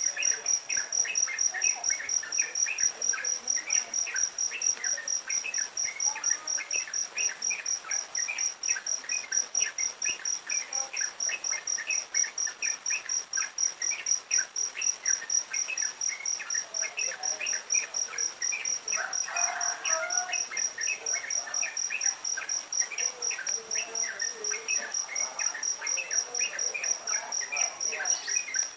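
Cricket trilling: a steady, high, finely pulsed tone that never stops. Under it runs a busy stream of short, lower chirps, a few each second.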